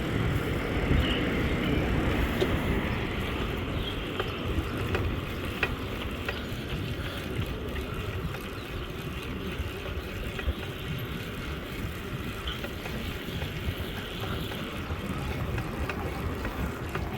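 Steady wind rush on the microphone and street noise from a moving bicycle, heaviest in the low end and easing a little after the first few seconds, with a few faint clicks.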